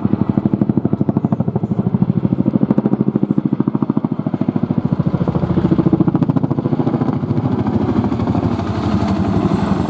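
Boeing Chinook HC.2's tandem rotors giving the distinctive blade slap: a loud, rapid, even beat that runs steadily through the pass.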